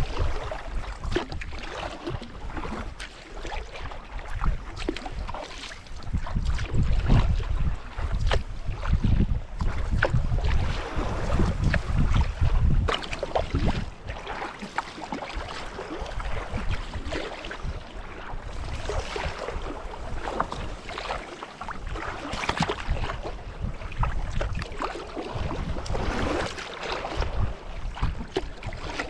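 Sea kayak paddling: paddle strokes splashing and water sloshing against the hull, with wind buffeting the microphone, heaviest in the first half.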